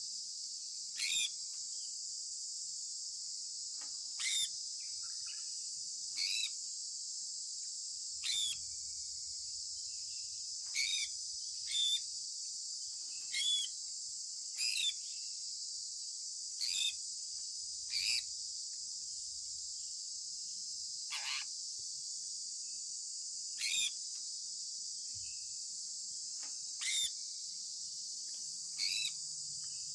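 Sun conure parrot giving short chirps, one every two seconds or so, each sliding down in pitch, over a steady high-pitched hiss.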